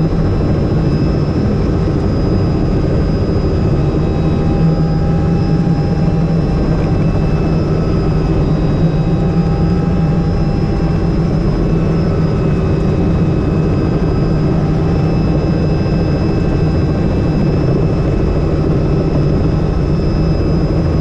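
Helicopter engine and rotors heard from inside the cabin in steady cruise flight: a loud, even drone with a deep hum and several high steady whines.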